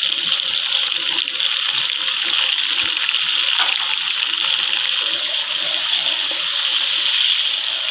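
Sliced onions, chopped tomatoes and green chillies sizzling steadily in hot oil in a pot, a curry base being fried. A wooden spoon stirs them near the end.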